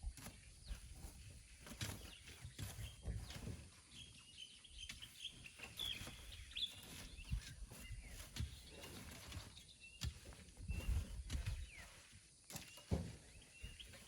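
Small birds chirping in short high calls over irregular knocks, scrapes and low thumps.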